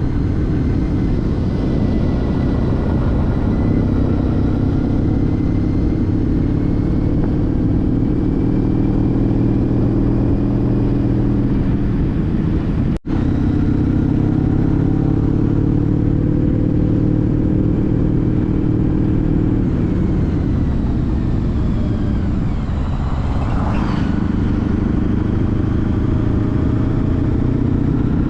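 2014 Honda CTX1300's V4 engine running under way with wind and road noise, its note rising and falling with throttle and gear changes. It drops away about three-quarters through as the bike slows, then builds again. The sound cuts out for an instant about halfway.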